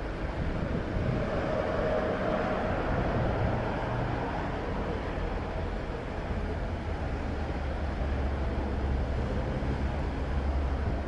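Steady vehicle noise from road traffic, swelling about two seconds in and deepening into a low hum near the end.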